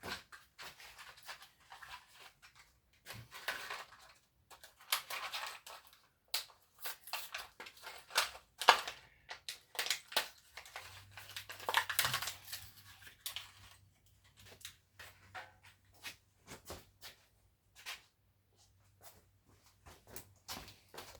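Scattered clicks, scrapes and rustling of hand work on a car's fuel line, fitting rubber hose onto metal tubing. A faint low hum comes in about halfway.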